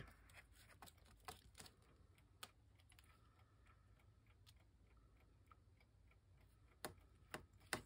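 Near silence with scattered faint clicks and taps of paper and a glue stick being handled, a few louder taps near the end.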